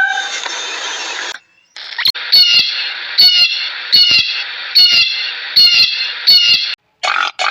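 A bird's short call repeated about seven times, roughly one every three-quarters of a second, after a longer pitched call that fades out at the start.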